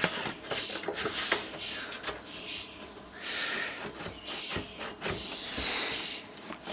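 Irregular clicks, light knocks and short scraping of hard plastic and metal parts being handled and pushed together, as a finned amplifier part is fitted into place.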